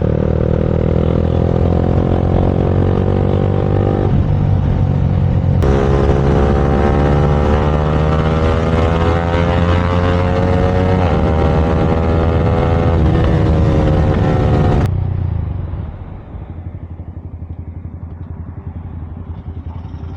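Motorcycle engine accelerating hard through the gears, its pitch climbing in long steady pulls with drops at the gear changes. Near the end the throttle closes and it falls back to a quieter, lower running.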